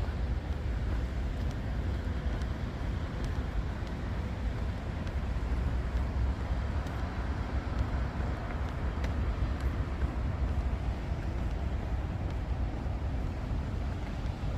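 Steady low rumble of street traffic under an even hiss of rain, with a few faint scattered ticks.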